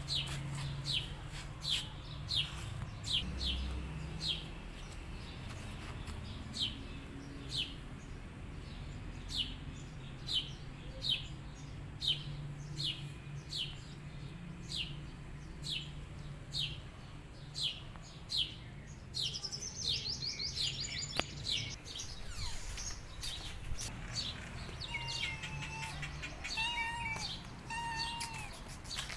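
A bird calling with short, sharp downward chirps, about one a second, over a steady low hum. Near the end a fast high trill and a few short, wavering calls come in.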